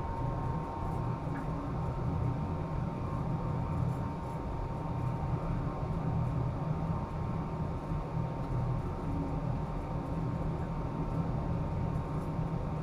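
Steady low machinery drone with a thin, steady high whine over it, unbroken throughout.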